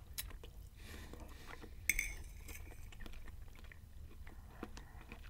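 Close-up chewing of a mouthful of spaghetti and sausage, with small wet mouth clicks and a sharper click about two seconds in. A metal fork clinks on a ceramic plate as more spaghetti is twirled.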